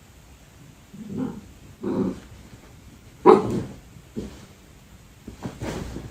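A dog barking in short, separate barks, the loudest a little over three seconds in.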